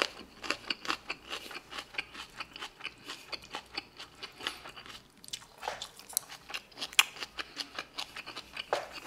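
A person chewing crisp vegetables close to the microphone: rapid crunches, several a second, with a short pause about five seconds in.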